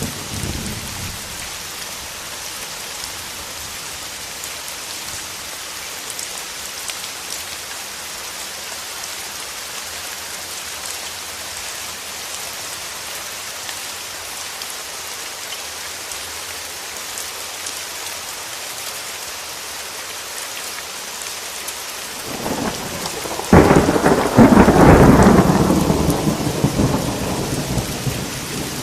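Steady rain with a thunderclap near the end: a low rumble builds, breaks into a sudden loud crack, then rumbles on for a few seconds and fades back under the rain.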